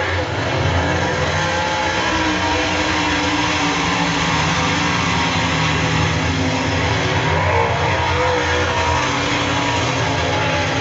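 Several super late model race cars' V8 engines running hard during a heat race: a loud, continuous engine din with several engine notes rising and falling as the cars pass.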